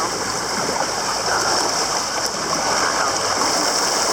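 Steady rush of lazy-river water, a constant hiss of flowing and splashing water.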